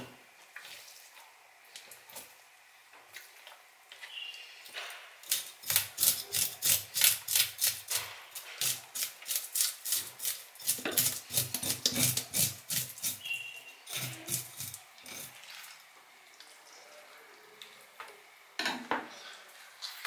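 A knife scraping the scales off a red scorpionfish in a stainless steel sink, in quick rasping strokes about four a second. The strokes come in runs, densest through the middle, with fainter scattered scrapes before and after.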